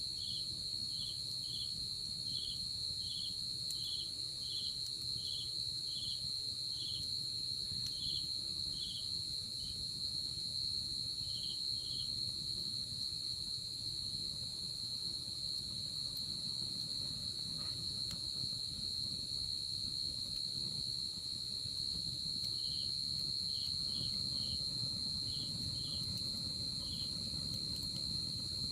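Night insects calling: one steady, unbroken high trill, with a second insect chirping about twice a second over it, which stops about twelve seconds in and starts again a little past twenty seconds.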